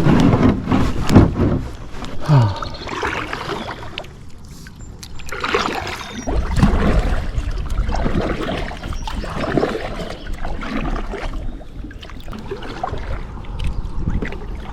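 Kayak on a creek: irregular knocks against the hull and water splashing and trickling around it, with a steady low rumble setting in about six seconds in.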